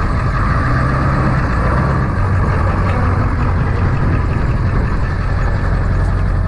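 A vehicle engine idling steadily with a constant low hum.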